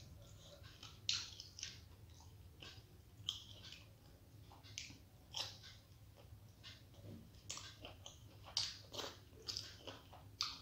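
A person chewing steamed vegetable momos: short, irregular mouth clicks and smacks, roughly one a second.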